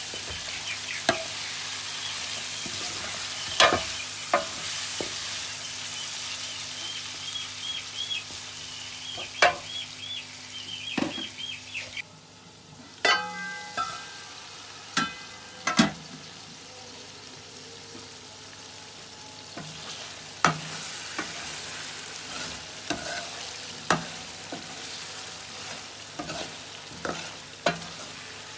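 Chicken karahi sizzling as it fries, stirred with a metal spoon that knocks and scrapes against the karahi. About halfway through the sizzle drops and a few ringing metal clangs follow, then quieter sizzling with more knocks.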